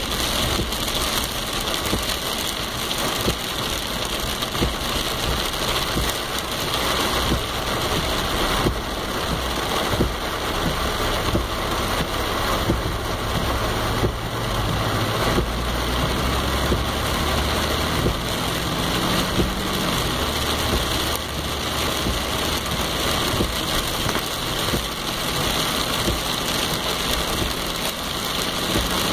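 Steady rain falling, an even hiss and patter with no letup. Through the middle a low, steady engine-like hum rises under the rain and fades again.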